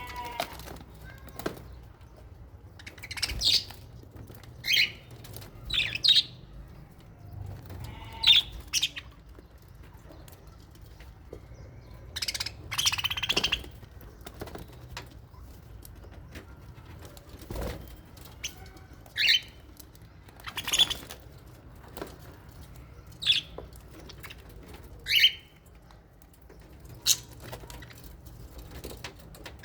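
Lovebirds and budgies in an aviary giving short, shrill chirps every second or two, with a longer burst of wing flapping about thirteen seconds in.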